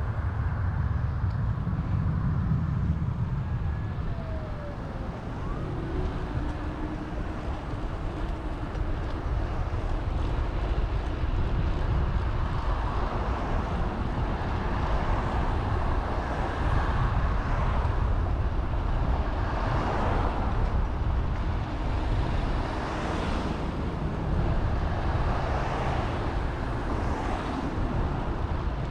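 Wind rumbling on the microphone of a moving bicycle, with road traffic going by; several vehicles pass in the second half, each swelling and fading.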